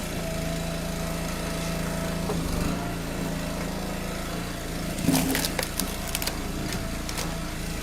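Small gas engine of a firewood log splitter running steadily at full throttle, with a few sharp knocks and cracks about five seconds in.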